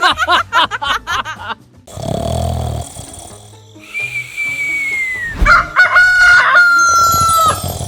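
Cartoon sound effects: quick squeaky warbling at first, then a long whistle-like tone that falls in pitch, a low thud about five and a half seconds in, and a held whistle-like tone near the end.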